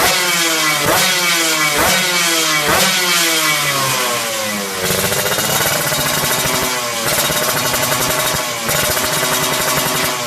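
Yamaha RX-King's two-stroke single-cylinder engine through a Creampie racing exhaust, blipped about once a second, the revs jumping up and falling back each time. About five seconds in, the revs climb and are held higher, dropping back briefly twice.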